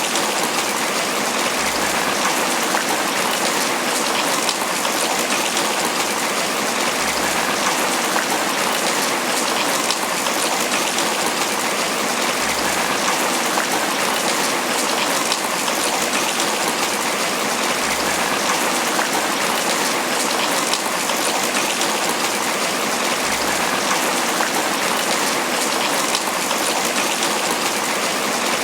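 Steady, dense tropical rain pattering on banana leaves.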